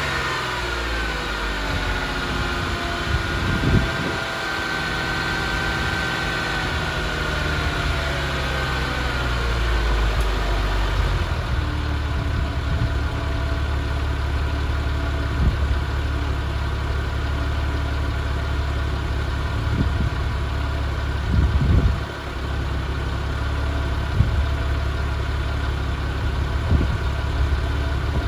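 2002 Porsche Carrera's flat-six engine running shortly after a cold start. Its revs come down from a higher speed over the first ten seconds or so and settle into a steady idle. A few brief thumps sit on top.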